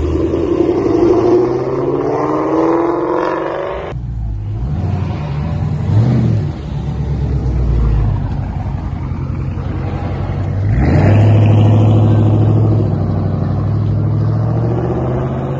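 Car engines: one accelerating with its pitch rising, cut off suddenly about four seconds in, then a lower engine rumble, and another engine getting louder about eleven seconds in and holding a steady drone.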